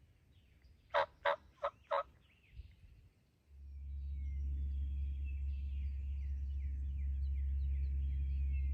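A wild turkey gobbling, a burst of four quick rattling notes about a second in. From about halfway through, a steady low rumble sets in, with small songbirds chirping faintly.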